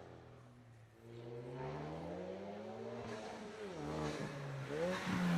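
A car accelerating hard through the gears as it approaches. The engine note climbs, drops at a gear change about three and a half seconds in and again near the end, then climbs louder.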